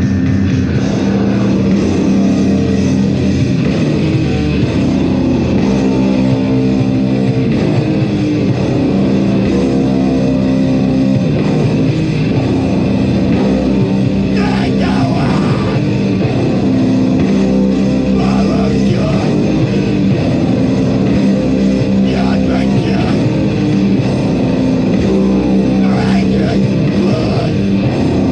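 A heavy metal band playing live: distorted electric guitars and drums, loud and dense, with shouted vocals breaking in now and then.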